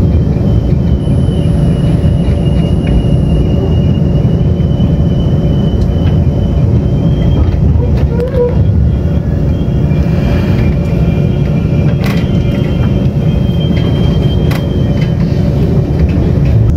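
Running noise of a Taiwan Railways Tze-Chiang express train at speed, heard from inside a passenger car: a loud, steady rumble of wheels on the track with a faint high whine and a few light clicks.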